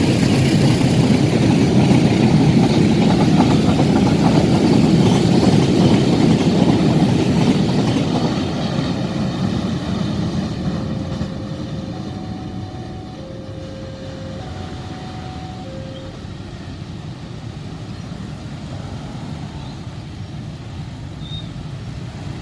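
Train passing close by: a loud rumble of wheels on rails that fades from about eight seconds in as the train moves away, leaving a lower steady noise.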